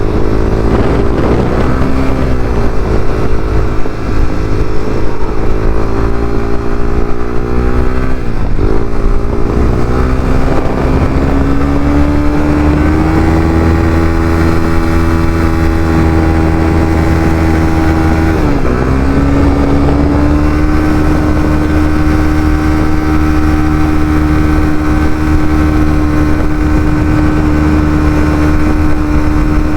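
Honda CBR300R's single-cylinder engine pulling under way. Its pitch climbs, drops at a gear change about eight seconds in and again a little past halfway, then holds steady at cruising speed.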